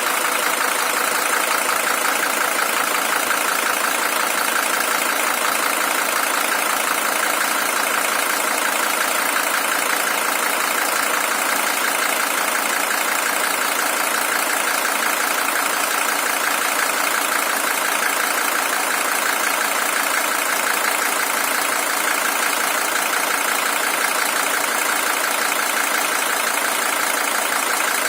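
Mercedes-Benz OM617 3.0-litre five-cylinder diesel engine idling steadily with its even diesel clatter; the original engine has 620,000 km on it.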